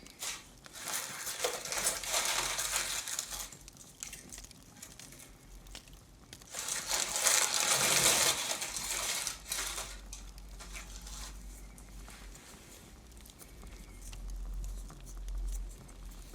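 Close-up crinkling and rustling of decorations and wrapping being handled, in two bursts of about three seconds each, with quieter handling sounds between and after.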